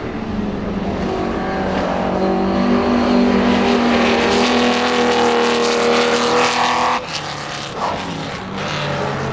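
Ferrari 250-series V12 race car engine at full throttle, the note climbing as it accelerates. About seven seconds in it drops away suddenly and a lower engine note follows.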